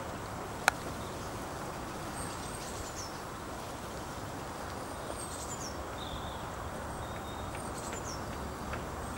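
Blue tit singing a short, high, falling phrase three times, about three seconds apart, over steady wind noise. A single sharp click sounds just under a second in.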